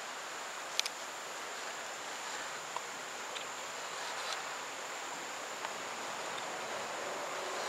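Outdoor background: a steady hiss with a constant high-pitched insect drone. A few small clicks are mixed in, the sharpest just under a second in.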